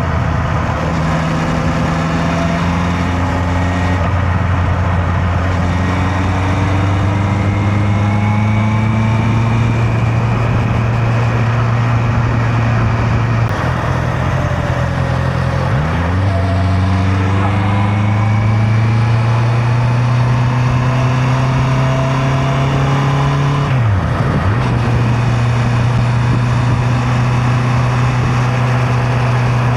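Honda CB650R's inline-four engine pulling steadily on the road, its note climbing slowly. Twice, about halfway and again about three-quarters through, the note dips sharply and recovers, as at a gear change.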